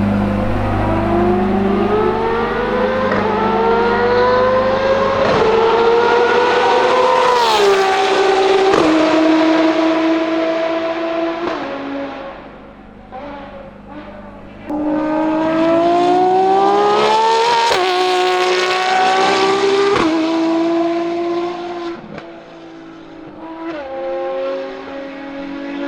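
Ferrari FXX K Evo's V12 engine at racing speed, accelerating with its pitch climbing through quick upshifts, then falling away and holding steady as the car eases off. This happens twice, and the sound cuts in abruptly at the start and again about halfway through.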